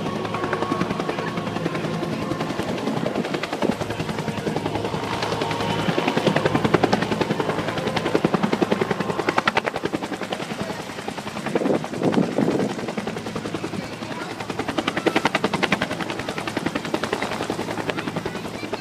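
Bell UH-1H Iroquois (Huey) helicopter taking off, its two-bladed main rotor beating in a fast, steady rhythm over the steady sound of its turbine engine.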